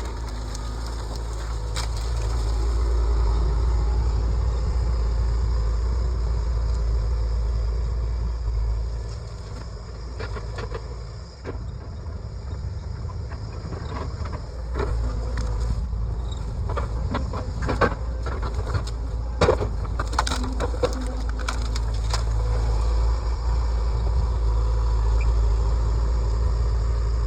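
John Deere 120 excavator's diesel engine running steadily, dropping back for a few seconds about ten seconds in, with a string of sharp knocks and cracks from about ten to twenty seconds in as it works the ground.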